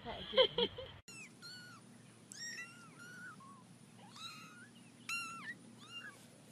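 Kitten mewing: a string of short, high-pitched mews, starting about a second in.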